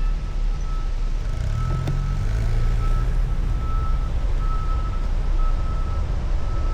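Heavy low wind rumble on the microphone with passing vehicle traffic, over a thin steady high tone that breaks off now and then.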